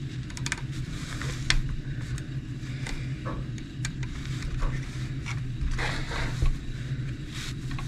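Small clicks, taps and scrapes from handling a hex (Allen) key and the plastic parts of an RC truck, with a short scrape about six seconds in. A steady low hum runs underneath.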